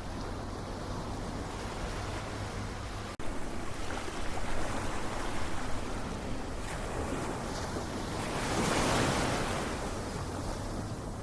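Ocean surf: waves washing in continuously, with one wave swelling up and breaking about nine seconds in. The sound briefly drops out for an instant about three seconds in.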